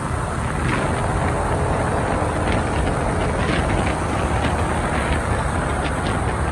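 Steady road noise from riding a motor scooter through city traffic: the bike's engine, wind rumble and surrounding traffic blended together at an even level.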